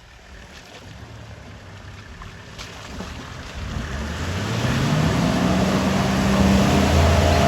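A four-wheel drive's engine grows louder as it comes on, revs up about four seconds in and holds a steady note under load, with a watery rushing noise as it drives through a muddy bog hole.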